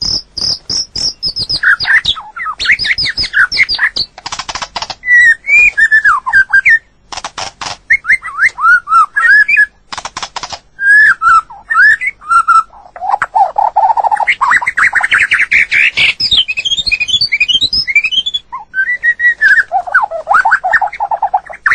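White-rumped shama singing: a long, varied run of rich whistled phrases that swoop up and down, broken every few seconds by short bursts of rapid clicking notes.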